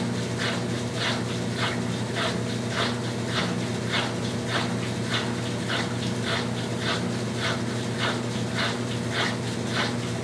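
Brastemp Tira Manchas Pro 12 kg top-loading washing machine running through its cycle: a steady motor hum under a regular swishing that repeats about twice a second.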